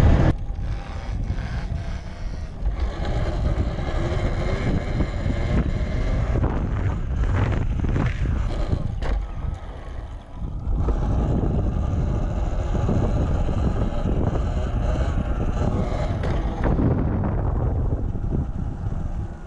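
Wind rushing over the microphone while riding an electric dirt bike, with faint motor whine underneath; it eases briefly about halfway through.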